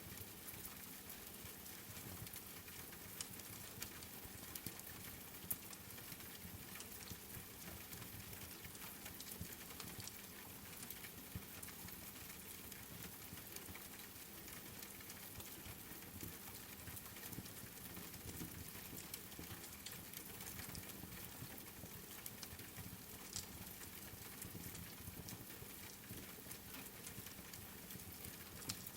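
Steady rain pattering, with a wood fire crackling and giving scattered sharp pops.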